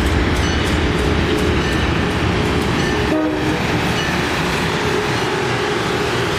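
Amtrak Acela Express electric trainset pulling into the station and rolling past at low speed: a steady rumble of the power car and coaches on the rails, with a brief tone about three seconds in.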